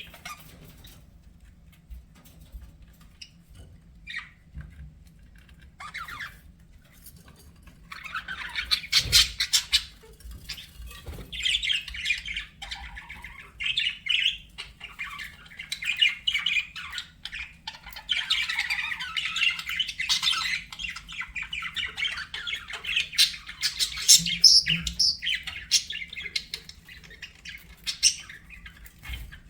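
Budgerigars chattering and warbling: a few scattered chirps at first, then from about eight seconds in a dense, almost continuous chatter in bouts.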